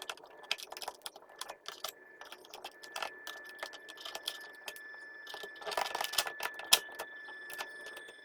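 Irregular small plastic clicks and rattles of hands working on an inkjet printer and its ink cartridges, over a faint steady high-pitched whine. The clicks come thickest about six seconds in.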